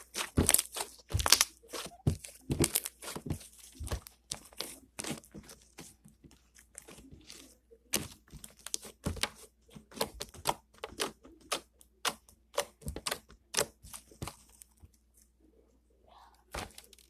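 Slime mixed with beads being squished and spread by hand: rapid, irregular clicking and crackling pops that thin out about fifteen seconds in, with a short burst again near the end.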